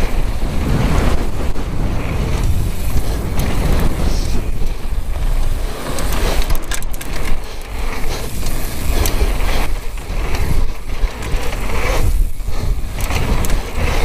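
Downhill mountain bike ridden fast down a trail: constant rough wind buffeting on the action camera's microphone mixed with tyre and bike noise over the ground, the loudness surging and dipping with the terrain.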